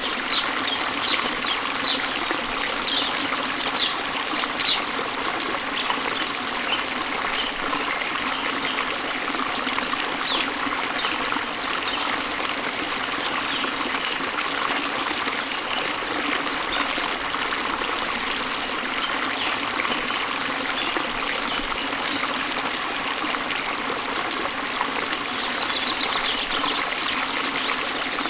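Steady running water of a waterfall, an even rushing and trickling. Over it, short high bird chirps come thick in the first few seconds, sparse in the middle and again near the end.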